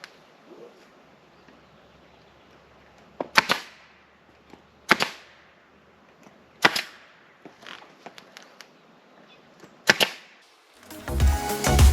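Pneumatic air stapler firing four times, each a sharp crack with a short ring, a second and a half to three seconds apart, as staples are driven into the interior roof panel. Music starts near the end.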